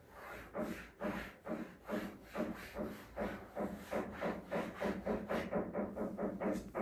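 Repeated knocking from a roof, about three knocks a second, keeping an even rhythm.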